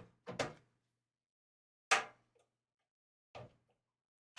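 A few sharp clicks and knocks of hardware being handled against a computer case, scattered with quiet between them. At the very end a power drill starts whirring.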